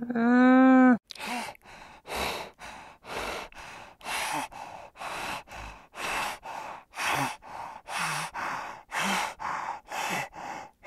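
An alpaca gives a single call about a second long, falling slightly in pitch, at the start. Then an African wild dog breathes heavily and rhythmically, a breath in and out about once a second.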